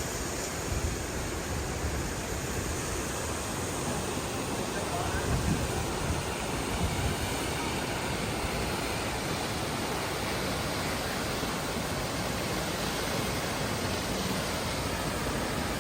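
Steady, even rush of water from the Düden Waterfalls, with a few low rumbles in the first seconds and again around five to seven seconds in.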